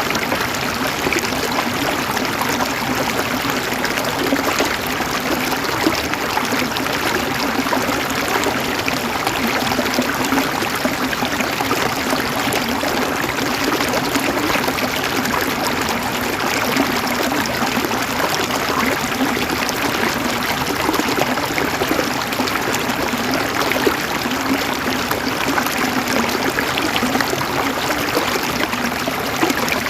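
Flowing water running steadily, a continuous rush with fine splashing and no breaks.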